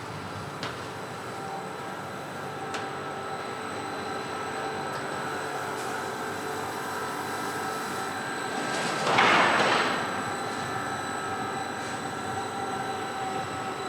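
Tram running, with a steady whine of several tones over its rolling noise and a few light clicks. About nine seconds in there is a louder hiss lasting about a second.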